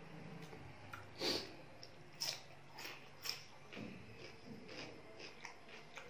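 A person chewing fried rice close to the microphone, with mouth smacks and clicks. A few louder, sharp smacks come between about one and three and a half seconds in.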